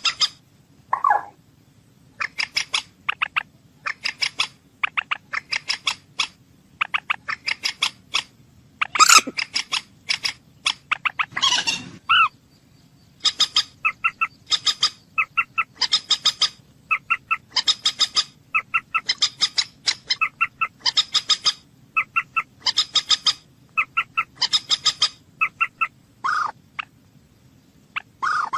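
A bird calling over and over in short, rapid, chattering bursts, about one a second, with a few lower, drawn-out calls mixed in.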